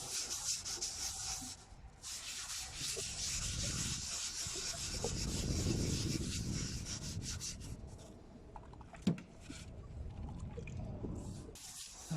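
Fine wet sandpaper rubbed back and forth on the oxidised plastic lens of a Toyota Yaris headlight, taking the hazy yellowed surface off. It starts as quick, even strokes, then turns to a rougher scrubbing, with one sharp tap about three-quarters of the way through.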